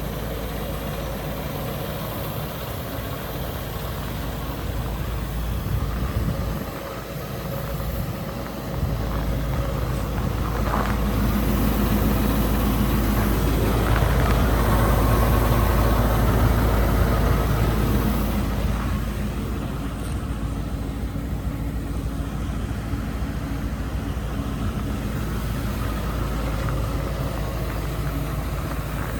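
Scania R520 truck's V8 diesel engine running, mostly at a steady idle. It grows louder for about eight seconds in the middle, then settles back.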